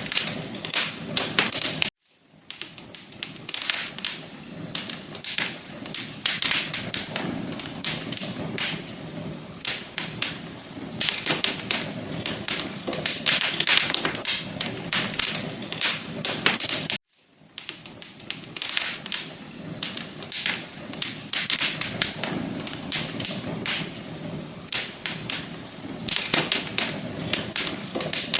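Wood fire crackling in a fireplace: a dense, irregular run of sharp pops and snaps over a low hiss, cutting out briefly twice.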